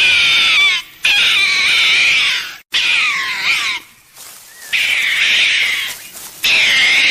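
An animal calling loudly and repeatedly: about five high, wavering calls, each lasting around a second, with short pauses between them.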